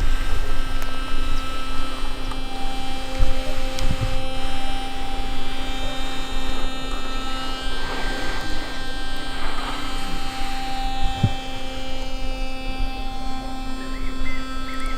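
Several singing bowls ringing in long, overlapping tones, with fresh tones struck in every few seconds, over a low rumble.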